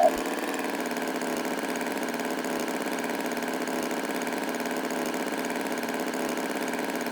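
Tractor engine idling: a steady, even drone that does not change.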